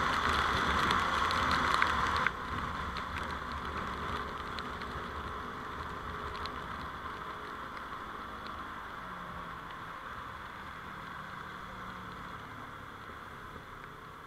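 Road and traffic noise from a moving vehicle picked up by a dashcam. A steady rushing noise drops suddenly about two seconds in, then fades gradually, with a faint low hum in the middle.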